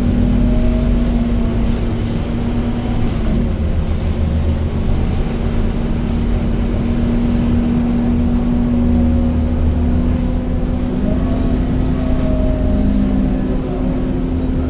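Scania K230UB single-decker bus running, a steady low drone with a faint whine that rises and falls in pitch as it changes speed.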